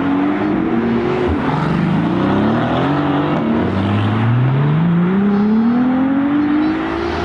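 A sports car engine accelerating hard through the gears. The engine note climbs steadily, drops back at an upshift about a second in and again near four seconds, then climbs again in the next gear.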